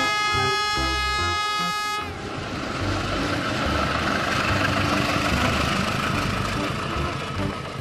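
CC201 diesel-electric locomotive's air horn sounding one long steady blast that stops about two seconds in, followed by the rumble and rattle of the train running past with its passenger coaches.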